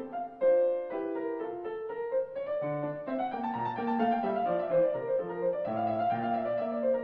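Piano music: a steady flow of separate notes, with chords low down under a melody line.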